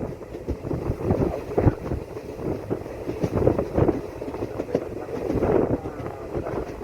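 Passenger train running, with irregular rattling and knocking and wind buffeting the microphone.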